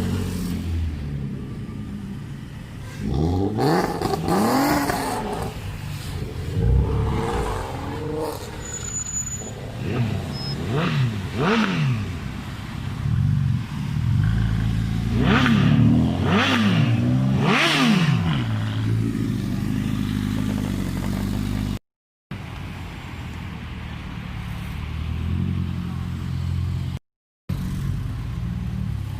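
Car engines revving hard in a series of quick blips, the pitch climbing and dropping several times, over steady low engine and road noise.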